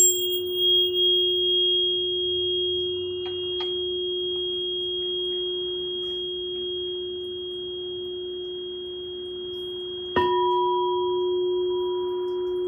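Glass singing bowl and singing pyramid ringing with pure, sustained tones over a steady low hum. A sharp strike at the start sets off a high ring, and another strike about ten seconds in adds a new middle tone.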